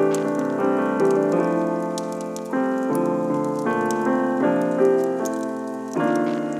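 Piano music: a run of chords struck about once or twice a second, each ringing and fading before the next, with a faint crackle above them.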